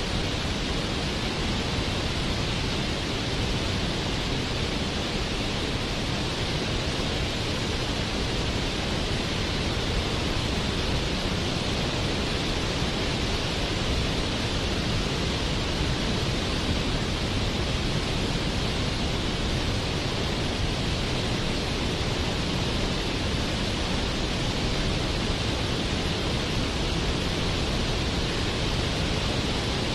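Waterfall: a steady, unbroken rush of falling water with no let-up.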